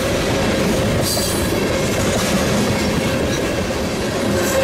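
Freight train of tank cars rolling past at close range: a steady rumble of steel wheels on the rail with clickety-clack over the joints and a thin, steady ringing tone running through it.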